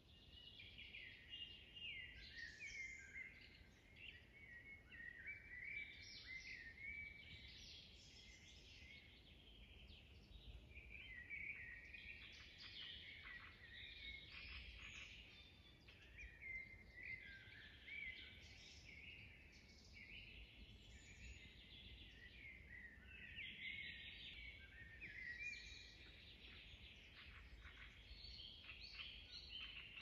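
Songbirds singing, a continuous faint chorus of quick chirps and trills.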